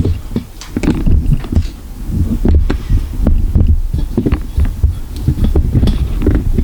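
Hands handling plastic printer parts and filament tubing: irregular clicks and knocks over a steady low rumble, the rumble likely handling or wind noise on the microphone.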